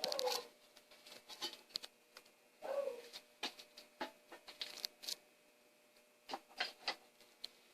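Handling noise: scattered sharp clicks, taps and light rustling, with two brief squeaks that fall in pitch, one at the start and one just under three seconds in.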